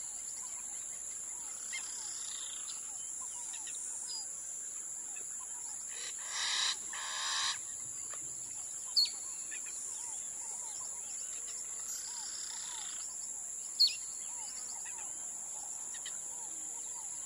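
Wild birds calling: sharp high chirps a few seconds apart, and a louder two-part call about six seconds in, over a steady high-pitched insect drone.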